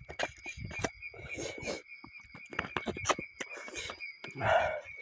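Close, wet chewing and lip-smacking of a man eating curry and rice by hand, a string of short smacks and clicks with a louder mouthful near the end. A steady high-pitched drone runs underneath.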